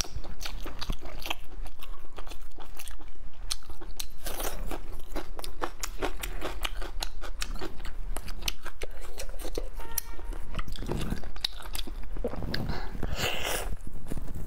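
A person biting and chewing spicy braised meat with an open mouth: a steady run of wet smacks and small mouth clicks.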